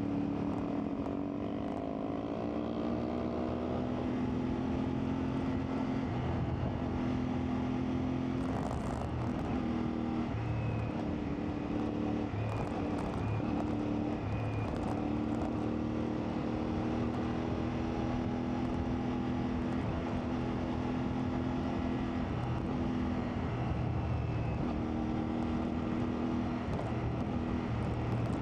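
CFMoto 450MT motorcycle's parallel-twin engine running under way, its pitch climbing and dropping repeatedly with throttle and gear changes.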